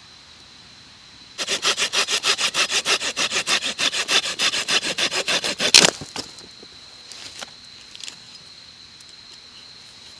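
Small hand saw cutting wood with quick, even back-and-forth strokes, about five or six a second. The sawing starts a little over a second in, lasts about four and a half seconds and ends on one louder stroke, and a few light knocks follow.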